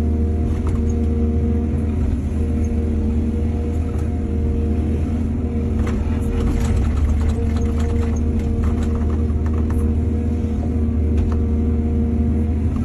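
Excavator's diesel engine running steadily under load, with a strong low rumble. Scattered knocks and rattles come through about halfway in.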